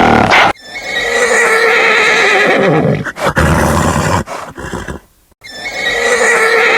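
A horse neighing: two long, wavering whinnies with a shorter call between them.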